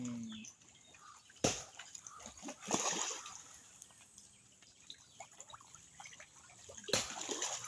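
Fish splashing and sloshing at a pond's surface as they take feed: a few separate splashes, about one and a half, three and seven seconds in.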